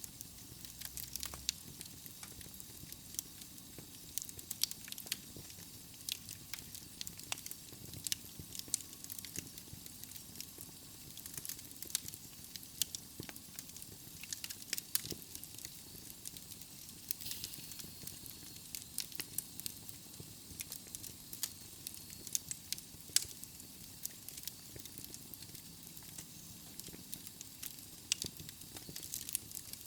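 Wood fire burning in a fireplace: logs crackling and popping irregularly over a soft steady hiss.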